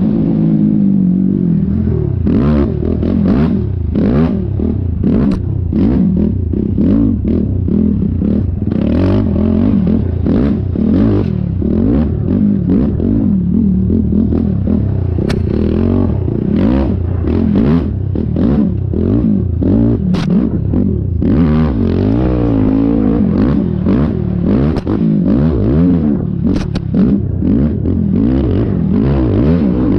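Yamaha YFZ450R quad's single-cylinder four-stroke engine revving up and down without pause as it is ridden hard, with frequent short knocks and clatter from the machine hitting bumps.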